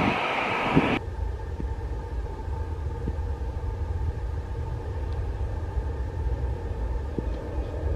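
Jet airliner engines running loud for about the first second, then dropping off suddenly to a steady low rumble with a faint steady whine.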